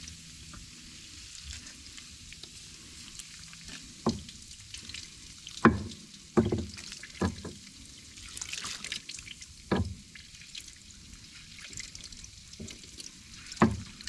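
Baking soda and water solution fizzing and crackling on a battery's acid residue as it neutralizes the acid, with a few sharp knocks along the way.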